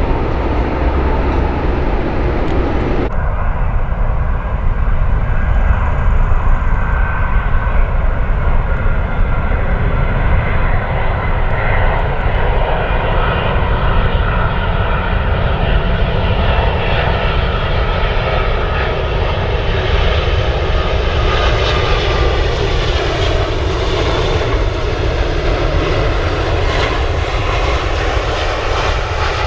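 Jet airliner's engines running loud close by: a deep rumble with several whining tones that drift slowly in pitch. The sound changes abruptly about three seconds in.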